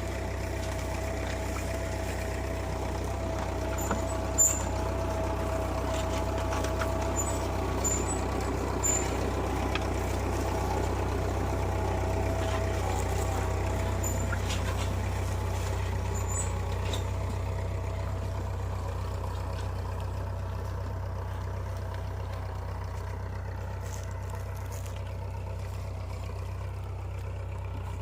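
Tractor engine running steadily, with a few sharp metallic clicks about four to nine seconds in.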